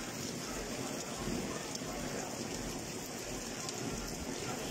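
Steady rain falling on a wet paved street, with water streaming down off an overhead edge close by.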